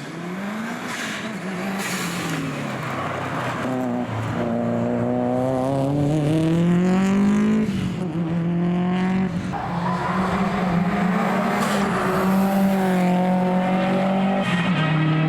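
Rally car engine at high revs: the pitch rises and falls, then climbs steadily to a sudden drop about halfway through, as at a gear change. It is then held high and steady while getting louder, with some tyre squeal.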